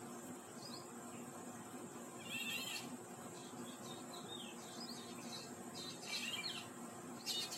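Several birds giving short chirps and calls at irregular intervals, over a steady high-pitched hiss.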